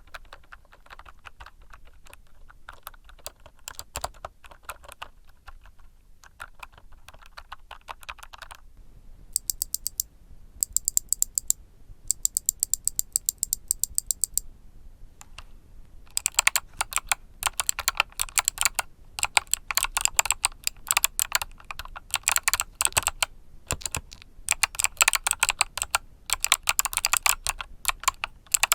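Typing on a mechanical keyboard with Kailh Box Summer switches, a fast run of key clicks. It is softer for the first eight seconds or so, has a stretch of sharper, higher clicks in the middle, and is louder and denser from about halfway on.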